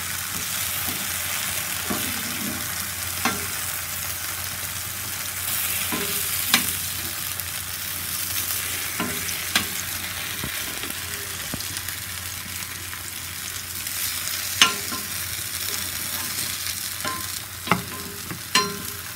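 Spiced raw plantain slices sizzling in oil on a dosa tawa, a steady hiss, with sharp clicks every few seconds as a flat metal spatula turns the slices over and knocks against the pan.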